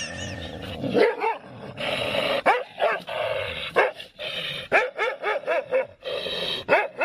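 A dog barking repeatedly in short, pitched calls.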